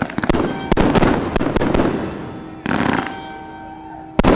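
Aerial fireworks going off: a quick run of sharp cracks in the first second and a half, then a loud bang about halfway through that fades away, and another loud bang near the end.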